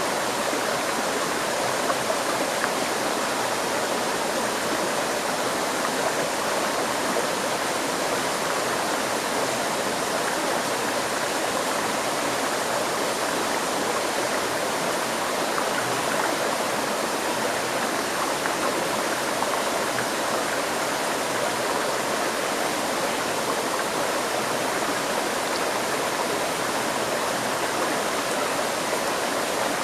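A river stream flowing, a steady, even rush of running water.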